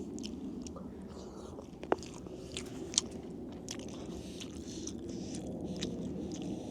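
Close-up eating sounds: biting and chewing food, with scattered sharp crunches and mouth clicks over a steady low hum.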